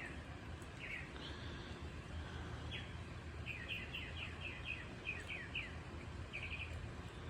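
A bird chirping in short, quick series of falling notes, over steady low background noise.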